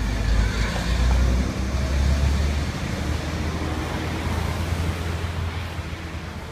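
Low engine rumble of a passing motor vehicle, loudest a second or two in and then slowly fading away.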